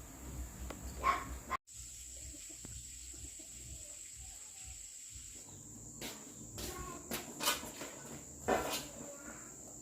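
Insects chirring steadily in a high, thin band, with several short, sharp sounds in the second half.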